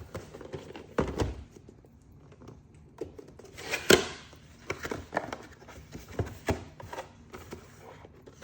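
Clipper packaging being opened and handled: a string of clicks, knocks and rustles, loudest about four seconds in.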